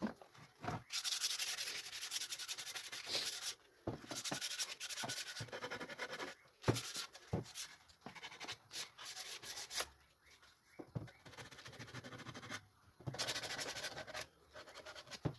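Sanding the purpleheart wood board: several spells of rasping a couple of seconds long, with light knocks and taps between them.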